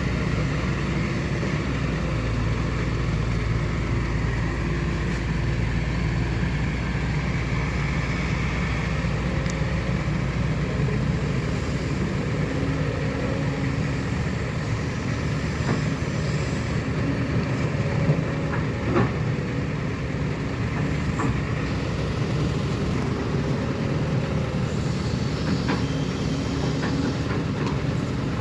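Heavy diesel earthmoving machinery running steadily with a low engine hum, and a few sharp knocks near the middle.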